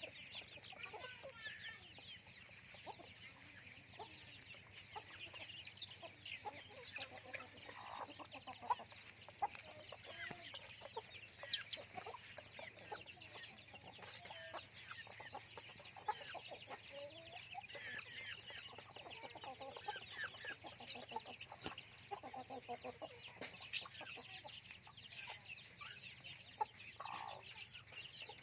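A flock of free-range chickens clucking and calling continuously, with many short high chirps among the lower clucks and a couple of louder calls about seven and eleven seconds in.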